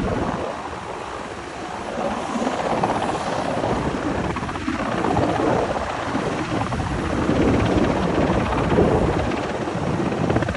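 Helicopter running, a steady rotor chop over engine noise. It dips in level for about a second and a half near the start, then comes back up.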